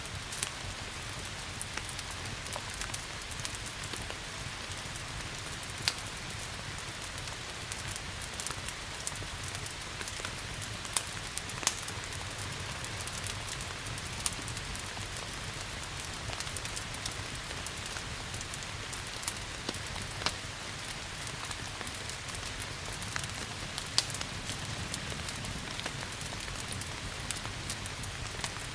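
Steady rain hiss with the sharp, irregular pops and crackles of a burning wood fire scattered through it.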